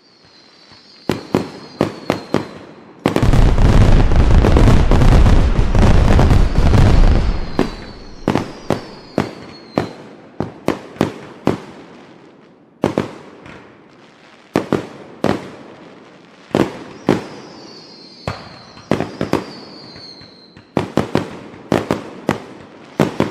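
Fireworks going off: a run of sharp bangs with several falling whistles. About three seconds in comes a loud, dense barrage of rapid crackling bangs lasting about four seconds.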